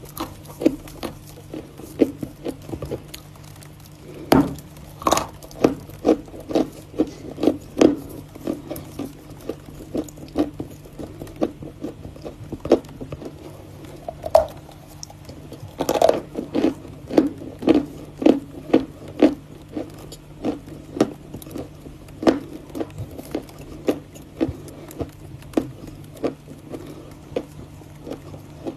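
Close-up chewing and crunching of Volokonovka chalk: a steady run of short, sharp crunches, several a second, with a few louder bites.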